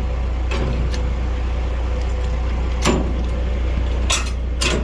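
International semi-truck's diesel engine idling steadily, with a few sharp clicks and knocks over it.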